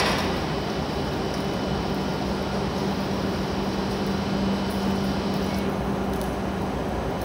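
Steady mechanical hum of a Hokuriku Shinkansen train standing at the platform, with a low steady tone in it.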